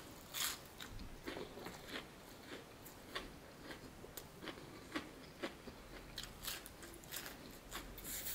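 Close-up eating sounds of crispy fried chicken: a bite into the crunchy breading near the start, then chewing with irregular crisp crunches and crackles.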